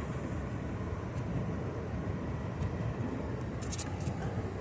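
Engine of a small vehicle running steadily as it rides along a trail, a low continuous rumble, with a few faint clicks toward the end.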